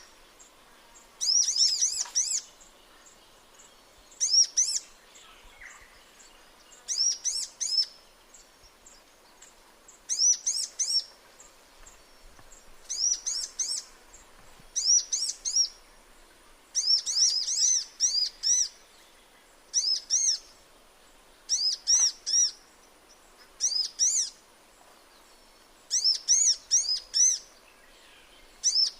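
A sunbird singing: short bursts of high, sharp chirping notes, repeated every two to three seconds.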